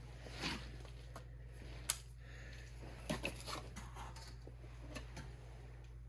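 Scattered handling noises, light knocks and rustles, with one sharp click about two seconds in, over a steady low hum, as the engine is readied for its first oil fill.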